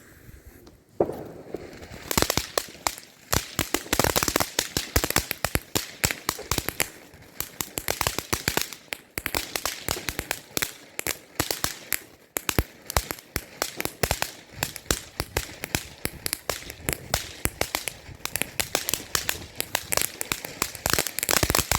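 Consumer firework going off in a dense, rapid run of crackling pops that carries on for about twenty seconds and cuts off sharply near the end.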